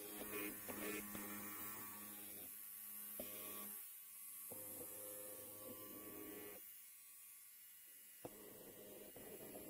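Electric hair clipper motor buzzing with a low, steady hum. It cuts out briefly about four seconds in, then again for a second and a half around seven seconds, and comes back with a click.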